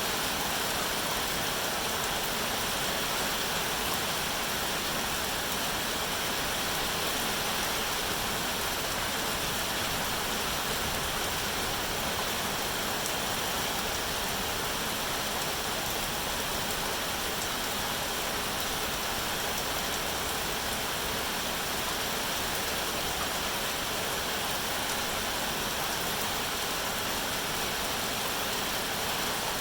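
Steady, even rain with no separate drops standing out.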